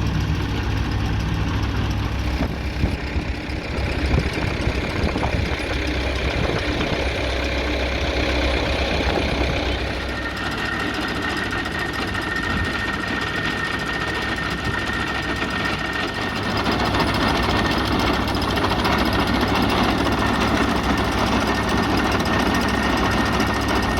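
An engine running steadily with a low, even hum. About ten seconds in, a steady high-pitched tone joins, and the sound grows a little louder from about sixteen seconds.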